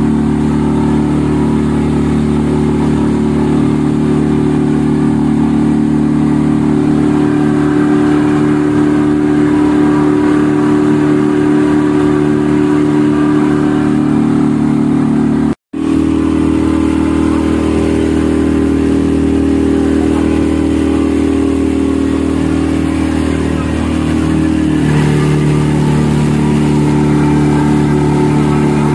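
A motorboat's engine running steadily at cruising speed, dipping in pitch briefly about three-quarters of the way through. The sound cuts out for a split second about halfway.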